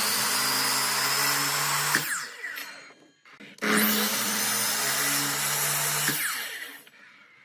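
A power tool's motor run twice in short bursts. Each run starts suddenly, holds steady for about two and a half seconds, then winds down as the trigger is released. The second run starts about three and a half seconds in.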